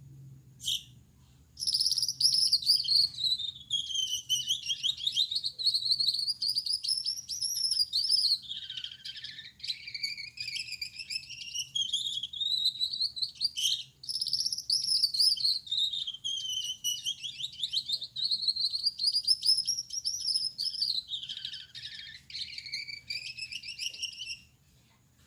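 Male Gouldian finch singing: a brief call about a second in, then a long buzzy song of high notes sliding up and down in pitch. The song breaks briefly about halfway and stops near the end.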